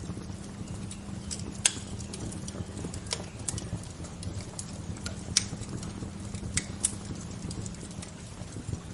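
Wood fire crackling, with irregular sharp pops and snaps over a steady low rushing background; the loudest pop comes a little under two seconds in.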